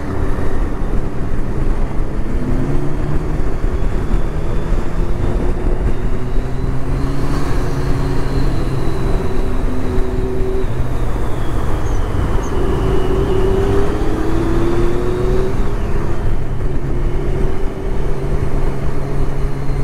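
Motorcycle engines of a group ride heard while riding along, under a constant rush of wind on the microphone. The engine tones hold steady and now and then rise and fall in pitch as the bikes change speed.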